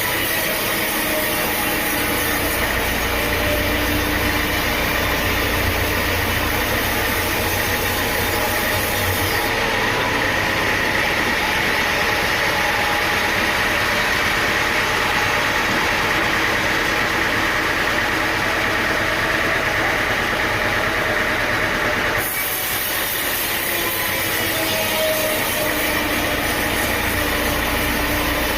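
Sawmill machinery running with a loud, steady engine-like noise. The sound changes abruptly about a third of the way in and changes back shortly before the end.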